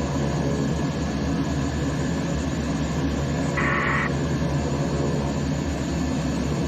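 Propeller aircraft engine running steadily at low power while taxiing, with a short high beep a little past halfway.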